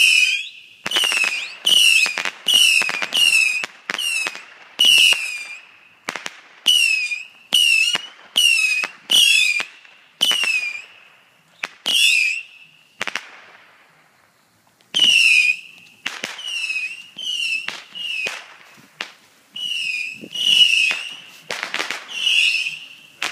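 Multi-shot fireworks cake firing whistling shots. Each is a sharp crack followed by a short, shrill whistle that dips in pitch, coming one or two a second, with a pause of about two seconds midway.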